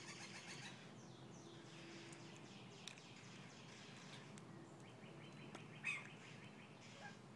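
Faint bird chirps over a quiet background, with one slightly louder chirp near the end.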